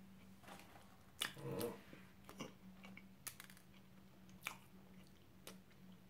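Faint chewing of a soft salted pretzel stick, with a few scattered small wet mouth clicks, the loudest about a second and a half in. A low steady hum runs underneath.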